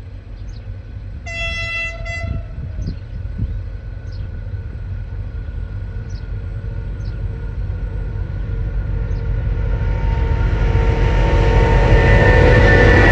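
CSR diesel-electric locomotive sounds its horn once, about a second long, a little over a second in. The train's engine and wheels then grow steadily louder as it approaches.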